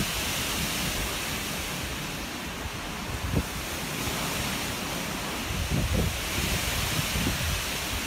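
Steady rushing noise with low buffeting thumps now and then, about three and a half seconds in and again around six seconds.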